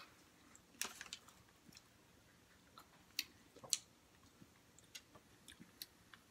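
Quiet mouth sounds of a person chewing a bite of donut: scattered soft clicks and smacks, a few a second, the loudest about a second in and again at about three and four seconds in.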